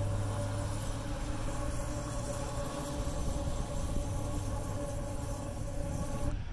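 Fire-breathing dragon sculpture's gas flame jet running: a steady rushing hiss with a hum under it that cuts off suddenly near the end as the flame shuts off.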